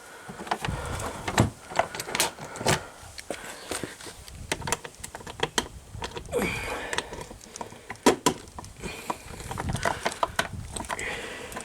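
Irregular clicks, knocks and rattles of small items and the motorcycle's plastic cargo case being handled and rummaged through.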